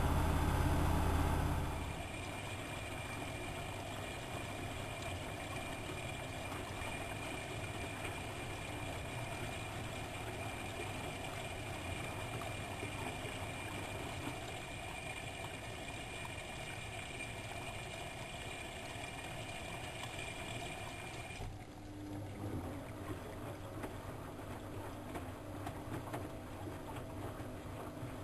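Siemens Siwamat 6143 washing machine running. A loud low motor hum cuts off about two seconds in, leaving a steady churning sound with a thin high whine. Near the end the whine stops and a lower steady hum takes over.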